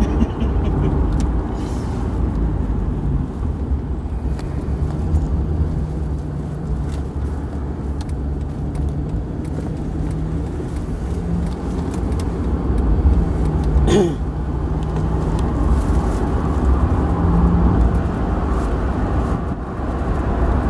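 Steady low rumble of a car driving, heard from inside the cabin, with an engine hum underneath. About two-thirds of the way through, a brief high sound glides sharply down in pitch.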